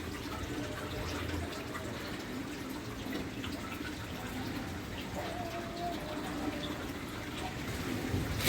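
Steady hiss of wind and rain, with a scattered patter of drops.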